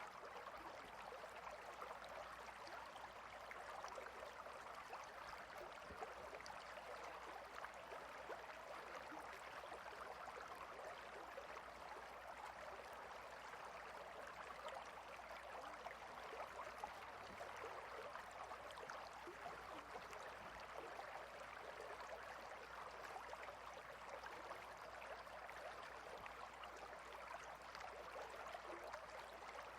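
A clear river running swiftly between rocks, a steady rushing and babbling of water with no change.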